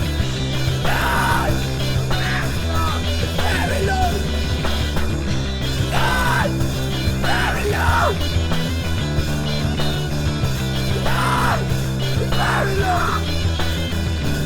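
Loud, dense rock band recording with a steady bass line and short yelled vocal phrases coming in every few seconds.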